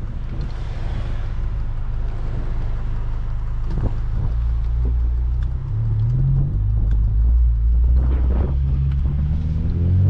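2.0-litre i-VTEC four-cylinder engine of an 8th-generation Honda Civic Si running under way. Its note shifts several times, gets louder from about six seconds in, and rises near the end.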